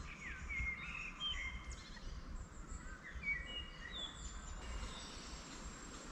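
Wild songbirds singing in willow trees: a run of short whistled and chirping phrases with quick pitch slides in the first few seconds, thinning out about halfway through. A faint steady low rumble runs underneath.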